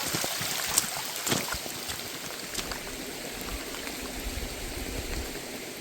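Heavy rain pouring down in a steady hiss, with a few sharp taps of drops striking close by.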